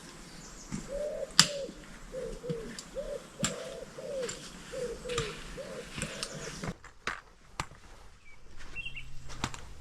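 A bird calling with a run of about nine low, hooting coos, some in falling pairs, while footsteps crunch on the trail. Near the end the sound changes abruptly, and a few brief high chirps follow.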